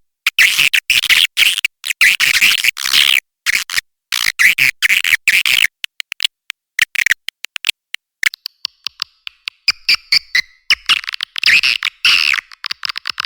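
Swiftlet call recording used to lure swiftlets to a nesting house: rapid, dense chattering made of quick trains of clicks with short gaps. About halfway through it thins to a higher, sparser twitter, then the loud chatter comes back.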